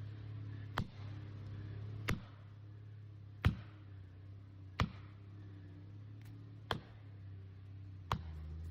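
Six sharp blows of a striking tool on wood, evenly paced at roughly one every one and a half seconds, over a low steady hum.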